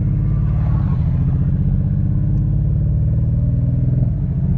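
Kia Stinger's turbocharged engine running with unsteady revs: the pitch shifts up about a second in and sags briefly near the end. The owner takes the wavering RPM for a boost leak from intercooler piping that has come off.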